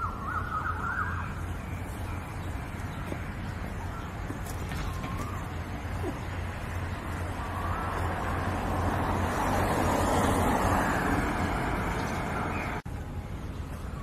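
Outdoor ambience: a few short wavering bird calls over a steady low hum, with a broad rush of noise that swells and fades in the middle.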